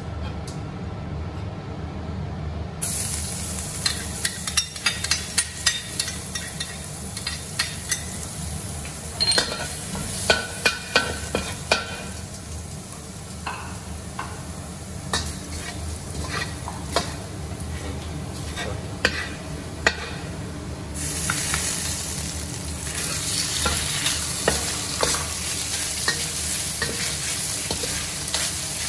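Chopped garlic sizzling in hot oil in a stainless steel wok, the hiss starting suddenly about three seconds in, with a metal spatula scraping and clicking against the wok as it is stirred. The sizzle grows louder about two-thirds of the way through as pieces of meat go in. A steady low hum runs underneath.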